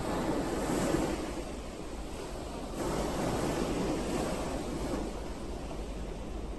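Ocean surf: waves breaking and washing in a continuous rush. It swells about a second in and again near three seconds, then ebbs.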